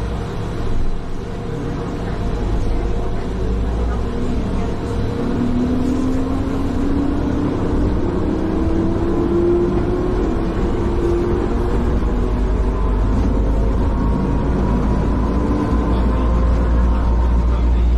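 Riding inside a moving vehicle: a steady low running rumble, with a whine that climbs slowly in pitch from about five to eleven seconds in as the vehicle gathers speed.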